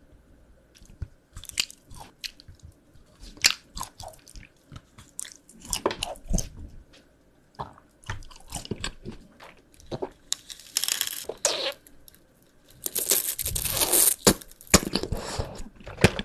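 Close-miked eating: a person biting and chewing a dark keyboard-shaped candy. It is a string of sharp crunches, with denser stretches of chewing noise around the middle and near the end.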